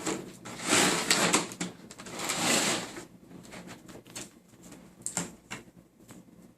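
A taped-up cardboard box being cut and opened by hand: irregular rustling and scraping of cardboard and packaging in the first few seconds, then scattered light clicks and taps as the contents are handled.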